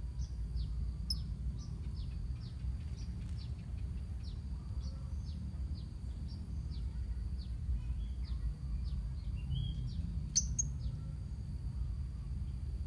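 A lovebird colony chirping: a run of short, quick, downward chips about three a second that thin out past the middle, with a louder, sharper call about ten seconds in, over a steady low hum.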